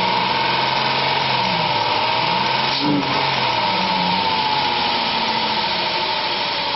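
2006 Dodge Grand Caravan's 3.3-litre V6 engine running steadily, with a steady whine over the engine note.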